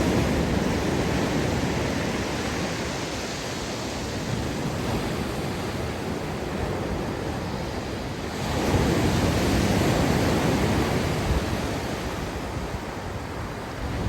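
Sea surf washing onto the beach, with a wave surging louder about eight seconds in and then slowly receding. Wind rumbles on the microphone.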